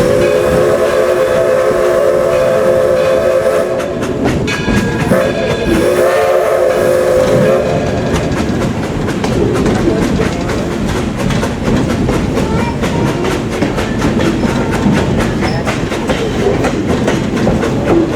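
Train whistle sounding a chord of several notes in two long blasts, then the wheels of the moving train clacking rhythmically over the rail joints.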